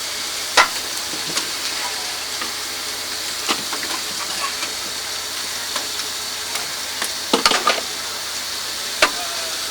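Steady hissing from the Eureka steam locomotive while its fire is being built up, broken by several sharp clanks and clicks, the loudest cluster about seven seconds in.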